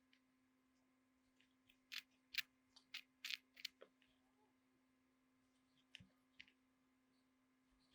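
A quick run of light, sharp clicks and taps about two seconds in, then two fainter ones near six seconds, over a faint steady hum.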